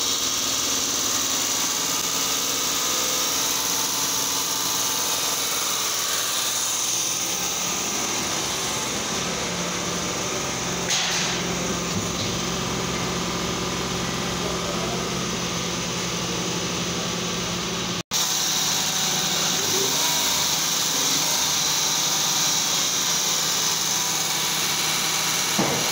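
Honda 3.0 VTEC V6 engine running steadily while it draws Liqui Moly catalytic converter cleaner through a hose into its intake. The sound drops out for an instant about two-thirds of the way through.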